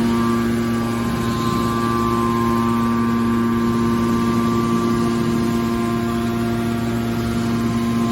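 Hydraulic scrap steel baler's power unit running with a steady hum that holds one even pitch.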